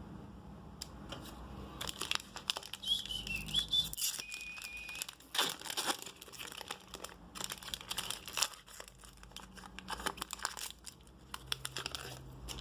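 Packaging being crinkled and torn open by hand, in irregular crackling bursts. A few seconds in there is a brief high, wavering whistle-like tone.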